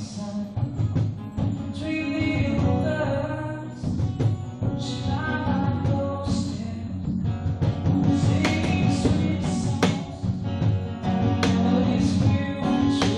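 Strummed acoustic guitar with a voice singing over it.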